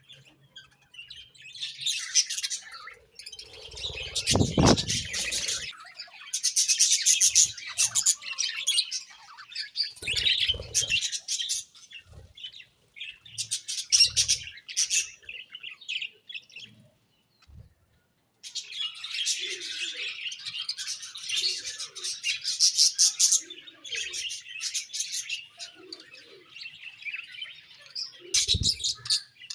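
Budgerigars chirping and warbling in rapid chattering bursts with short pauses between them, with a low, dull thump about four seconds in.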